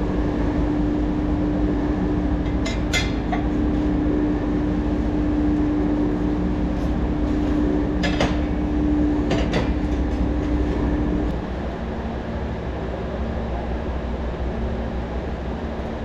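Steady running machinery in a workshop, with a hum that drops to a lower, quieter tone about two-thirds of the way through. A few sharp metallic clinks from metal parts being handled.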